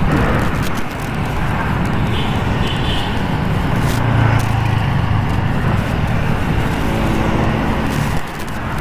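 MV Agusta F4's inline-four engine running at low revs as the motorcycle creeps along the roadside, with street traffic around it.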